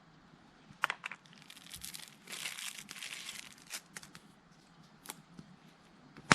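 Crinkling and rustling, as of wrapping or a bag being handled, for about two seconds, with a few sharp clicks before and after.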